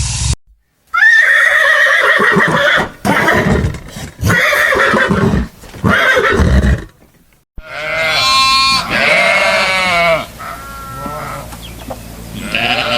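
Farm animals calling in a run of separate short clips: four loud calls, then after a brief cut a long wavering call and some quieter ones.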